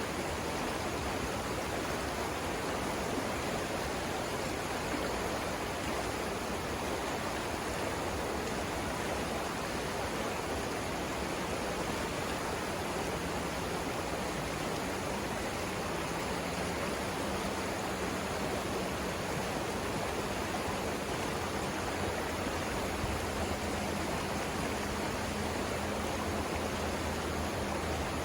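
Savannah River flowing over rapids: a steady, even rush of moving water.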